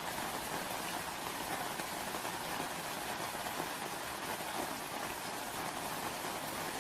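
Steady rain falling, an even hiss without distinct drops standing out.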